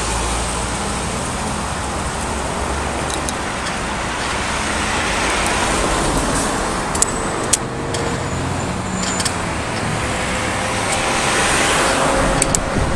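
Road traffic noise: vehicles passing, swelling louder twice, near the middle and toward the end. A few sharp clicks sound over it.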